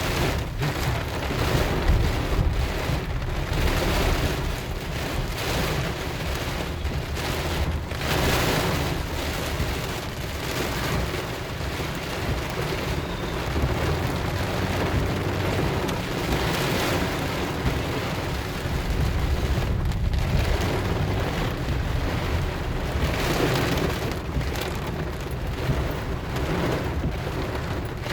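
Rain falling steadily, with a constant low rumble beneath it.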